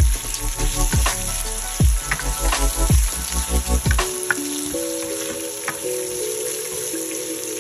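Sliced onions and chopped garlic sizzling in hot oil in a nonstick pan, stirred with a spatula, with a few scraping ticks. Soft background music plays under it, its low beat dropping out about four seconds in.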